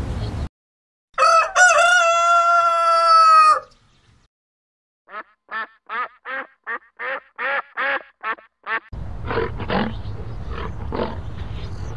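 A rooster crowing: one long, strongly pitched call about a second in. A quick run of about a dozen short, clipped calls follows, roughly three a second.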